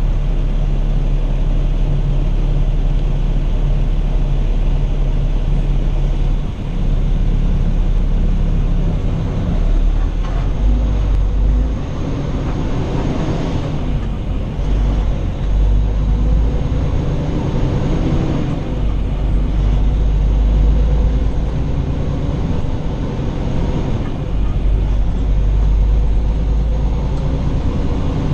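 Semi truck driving on the highway, heard as steady engine and road rumble, with the engine pitch rising and falling for several seconds in the middle.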